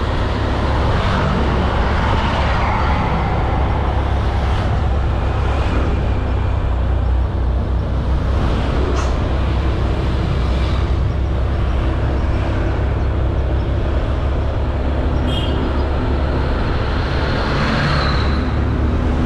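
Honda Beat 110cc scooter's single-cylinder engine running steadily while riding, under heavy wind rumble on the camera microphone and road noise.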